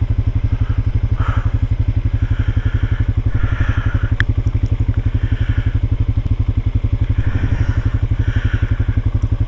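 ATV engine running steadily at low revs, an even chugging beat of about ten pulses a second.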